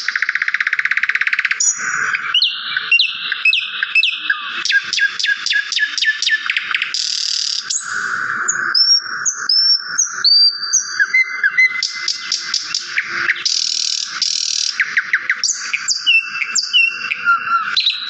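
Small songbirds singing and calling, one phrase after another: fast trills, quick runs of chirps and short clear whistles that sweep up or down.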